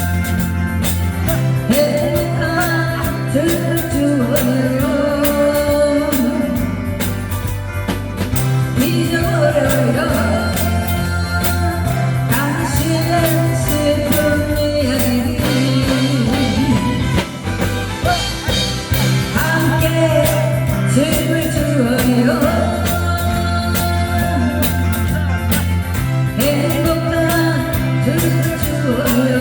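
A singer's voice with vibrato over accompanying music with a steady beat and bass line.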